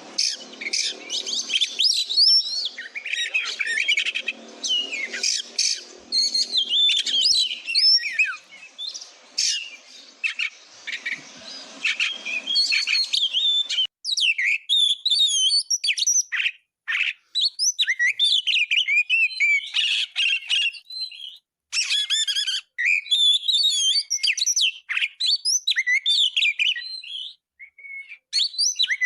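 Oriental magpie-robin (kacer) singing continuously: a rapid, varied stream of whistled and chattering phrases, the full repertoire used as training song for other birds. A faint low background noise lies under the song until about halfway, after which the phrases come with short pauses between them.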